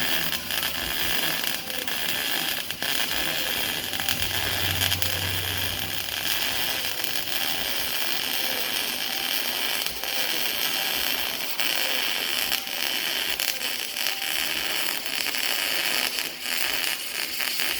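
Electric welding arc running on 3-inch stainless steel exhaust pipe: a continuous hiss with a fine, irregular crackle, one long bead that starts just before and stops just after.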